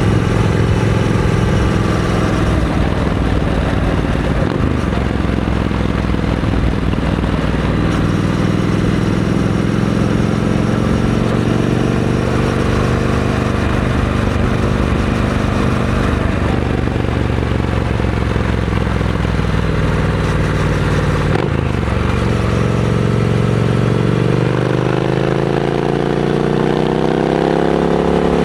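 Triumph Scrambler 900's parallel-twin engine running through a Vance & Hines aftermarket exhaust, its pitch slowly rising and falling, with a brief break about two-thirds of the way through and a steady climb in revs near the end.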